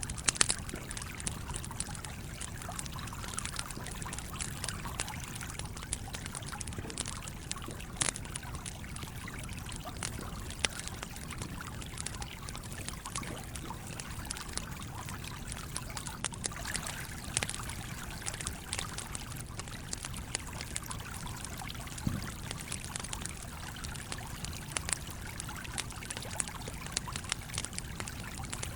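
A stream flowing steadily, with a wood campfire crackling over it in scattered sharp pops, a few of them louder, the loudest near the start.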